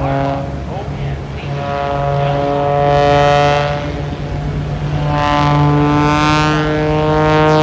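CAP 232 aerobatic plane's piston engine and propeller droning during an aerobatic display. The tone swells and sweeps as the plane passes, around three seconds in and again near six seconds.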